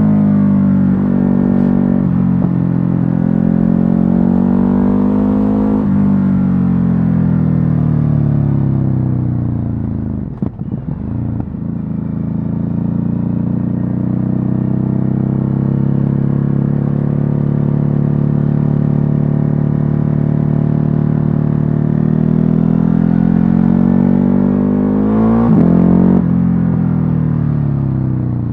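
Ducati Hypermotard 950's L-twin engine through its stock exhaust under riding load. It pulls up in pitch and drops suddenly at upshifts about two and six seconds in, eases off around ten seconds, holds a steady cruise, then climbs again before another shift near the end.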